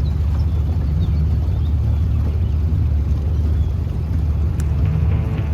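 An engine running at a steady speed, giving a constant low drone.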